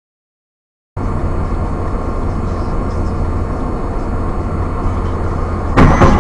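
Steady road and engine noise inside a moving car, recorded by a dashcam, starting about a second in. Near the end comes a sudden loud bang, the sound of a collision.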